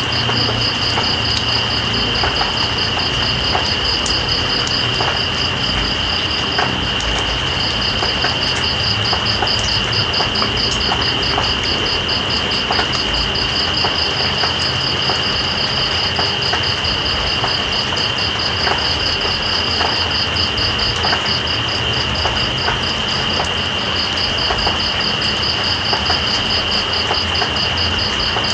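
Night insects calling over steady rain: one insect holds a continuous high buzz while another gives a fast, even pulsing trill that pauses briefly about seven seconds in. The rain is a constant hiss with scattered drop ticks.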